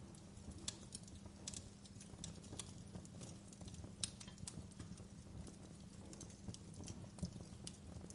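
Wood fire in a fireplace crackling: irregular sharp snaps and pops, one or two a second, the sharpest about four seconds in, over a steady low rumble.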